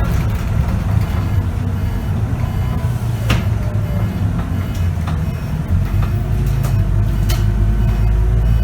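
Scania K94UB city bus running under way, heard from inside the cabin: a steady low engine drone that dips briefly a little past halfway, with a few sharp rattles over it.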